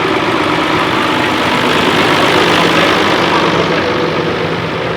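Tractor engine running steadily at low revs, slightly louder around the middle.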